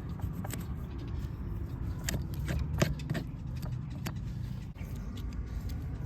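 Farrier's steel tools clicking and clinking sharply and irregularly against a horseshoe, the loudest click nearly three seconds in, over a steady low rumble.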